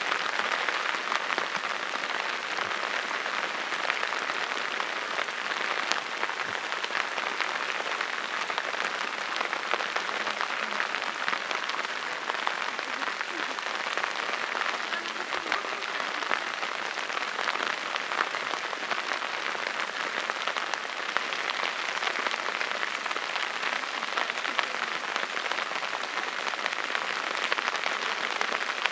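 Steady rain falling on a flooded rice paddy, a dense, even patter of drops.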